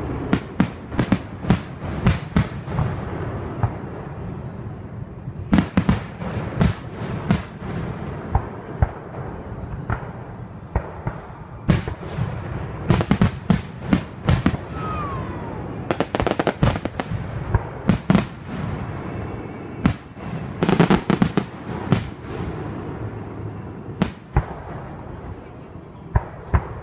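Aerial fireworks display: shells bursting in irregular volleys of sharp bangs and booms, with rumbling and crackle between them and denser rapid-fire clusters several times.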